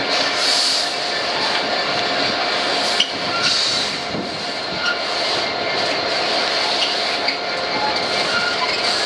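GB Railfreight Class 66 diesel locomotive passing with a gypsum train, the locomotive's engine giving way to the wagons' steady wheel-on-rail noise, with a few sharp clicks.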